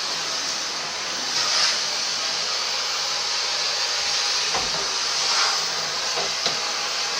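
Household vacuum cleaner running steadily, its hiss swelling briefly a couple of times, with a low thump about halfway through and a short click near the end.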